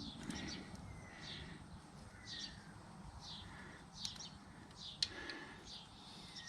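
A bird calling in the background: short falling chirps repeated about once a second, with fainter sliding whistles lower down. A single sharp click sounds about five seconds in.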